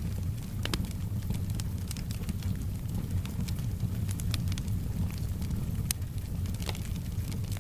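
Wood fire burning in a fireplace: a steady low rumble with irregular sharp crackles and pops, a few each second, over a faint soft hiss of rain.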